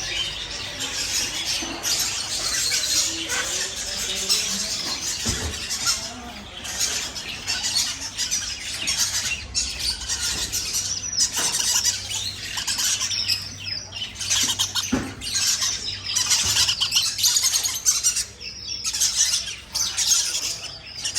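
Many caged birds chirping and squawking together in a dense, unbroken chatter, with a couple of brief knocks in the middle.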